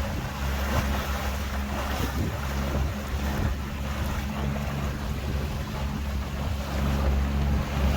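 Tour boat's engine running steadily under way, with water rushing past the hull and wind buffeting the microphone.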